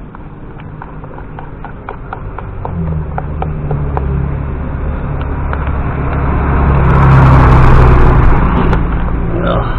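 A vehicle engine running close by, its low hum coming in about three seconds in, growing louder through the middle and easing off near the end. A few light clicks are heard early on.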